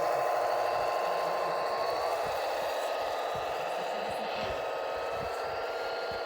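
Engine-sound module of an RC model Tatra 138 truck playing a simulated Tatra 928 diesel engine through a small speaker, running steadily. A thin whine rides over it and rises slightly in pitch about two seconds in.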